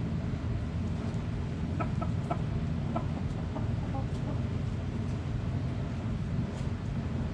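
Chickens clucking: a quick run of short clucks about two seconds in, then a few more, over a steady low background rumble.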